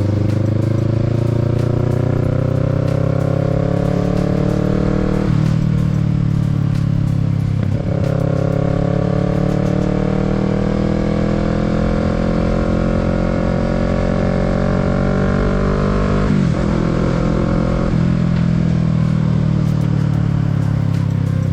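Kawasaki Z650's parallel-twin engine pulling hard under acceleration, its pitch climbing steadily then dropping sharply at upshifts about five seconds in and again near the end, with wind rushing past.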